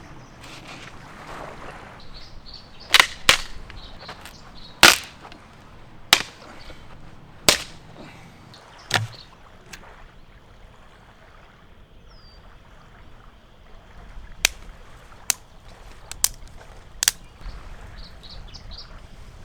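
A series of about a dozen sharp cracks at irregular intervals, in two groups: six in the first half, then a quieter stretch, then five more in quick succession later on, over a faint outdoor background.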